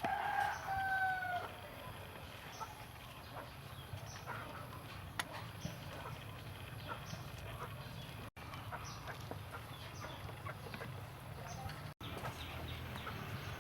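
A rooster crows once at the start, a single call of about a second and a half. Faint scattered clicks over a low steady background follow.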